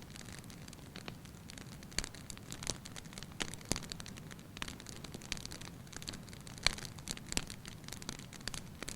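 Wood fire burning in a fireplace: irregular sharp crackles and pops over a low steady rumble of flame, with one louder pop about two-thirds of the way through.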